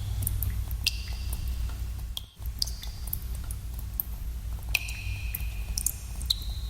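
Water drops falling in a cave, each landing as a sharp plink with a short ringing tone that fades away, a few big drops a second or two apart among smaller ticks, over a steady low rumble. The sound cuts out for a split second a little after two seconds in.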